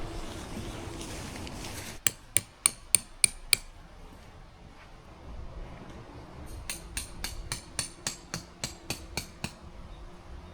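Hammer blows on metal. A quick run of about six sharp, ringing strikes comes about two seconds in, then a second, lighter run of about a dozen at about four a second.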